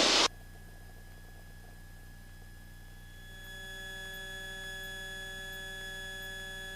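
Steady electrical hum with several thin, level high tones on the Cessna 172's intercom audio feed; a further set of whining tones joins about three and a half seconds in and holds steady.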